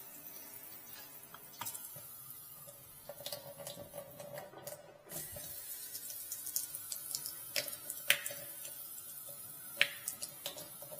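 Water running from a newly installed kitchen faucet into the sink during its first test, with scattered sharp clicks over the steady flow.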